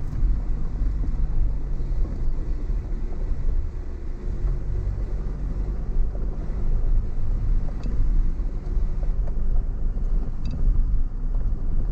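Car driving on an unpaved off-road track: a steady low rumble of engine and tyres, with a few faint clicks and rattles.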